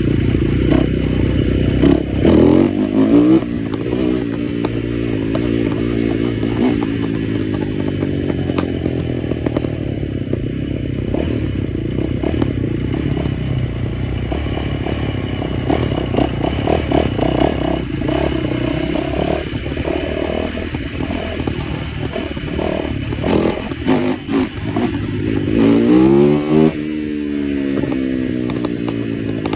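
Small motorcycle engine running steadily, revved up sharply twice, about two seconds in and again near the end, its pitch rising and then falling back.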